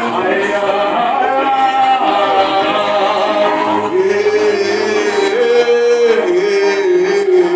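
Singing with musical accompaniment: a voice holding long, slowly gliding notes over a steady backing.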